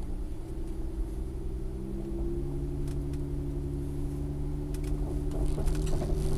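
Engine drone and road noise of a slowly driven vehicle, heard from inside its cab: a low rumble with a few steady engine tones. It grows a little louder near the end as the vehicle enters a stone arch tunnel.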